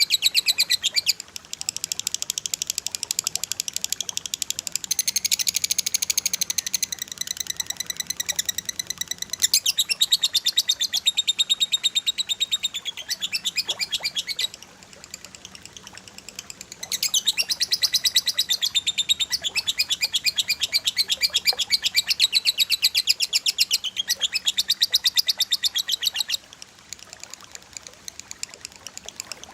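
Cililin and lovebird song: long runs of rapid-fire, densely repeated high chirping notes, breaking off briefly about halfway through and again near the end.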